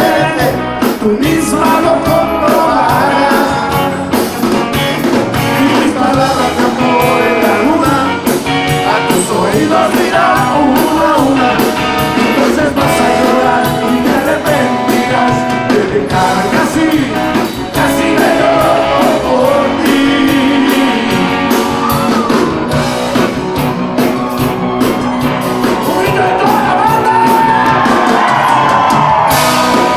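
Rock song with sung lead vocals over electric guitar and a steady drum beat.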